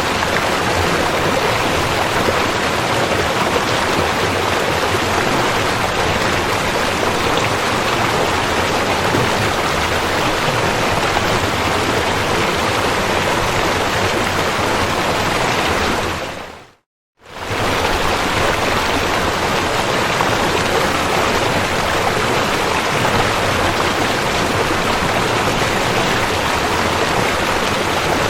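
River water rushing steadily. About two-thirds of the way through, the sound fades out for under a second and then returns.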